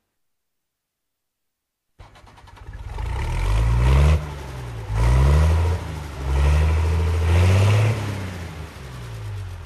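An engine revving up and down several times, its pitch rising and falling, after about two seconds of silence.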